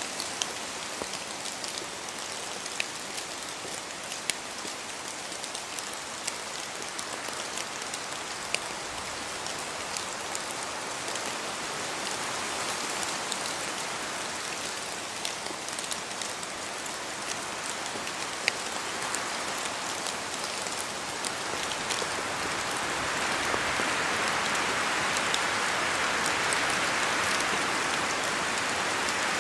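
Rain falling in a forest: a steady patter with scattered louder single drops. The rain noise swells louder about two thirds of the way through.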